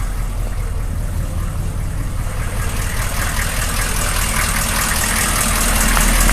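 Chevrolet 6.5-litre turbo diesel V8 idling steadily, growing a little louder toward the end.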